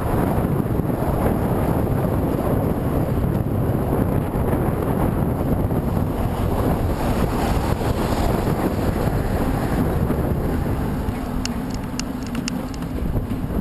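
Strong wind buffeting the microphone, a heavy steady rumble from moving into a headwind. A few light clicks near the end.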